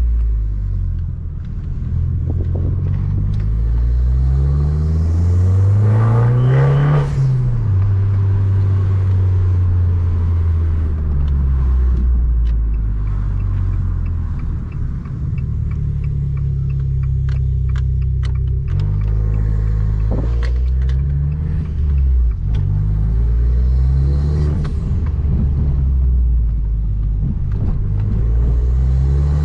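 Abarth 595 Competizione's turbocharged 1.4 four-cylinder, tuned to about 215 hp and breathing through a 60 mm full exhaust, revving up and easing off several times, its note climbing and then falling. A run of sharp crackles comes around the middle.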